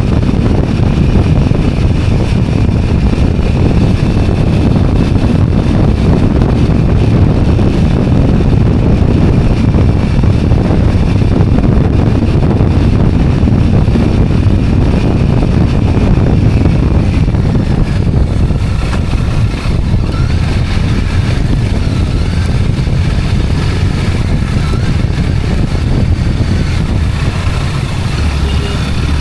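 Two-wheeler under way: a steady engine drone mixed with road and wind noise.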